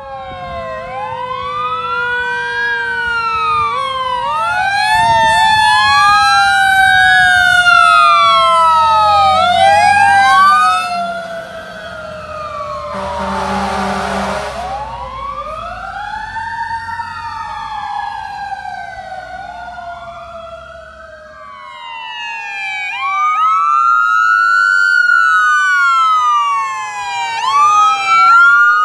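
Emergency vehicle sirens wailing, two or more overlapping and sweeping up and down in pitch, from a responding fire engine and ambulance. About thirteen seconds in, a short rush of passing-vehicle noise rises over them.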